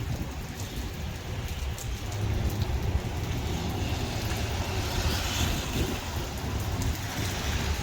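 Rain falling steadily over traffic on a wet road, with a constant low rumble. A swell of tyre hiss on the wet pavement comes about five seconds in.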